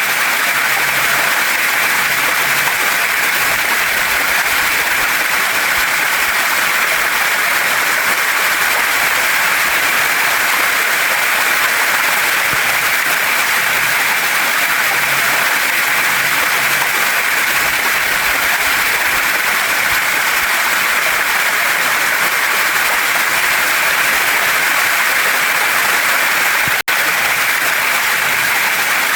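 Waterfall and stream water rushing over rocks in a loud, steady hiss. The sound cuts out for an instant near the end.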